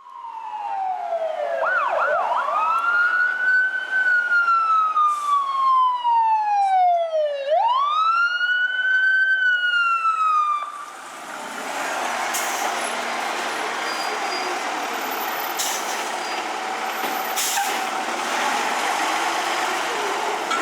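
Fire engine siren on a slow wail, its pitch sweeping down and up, with a few quick yelps about two seconds in; it cuts off about halfway through. A steady rushing noise follows.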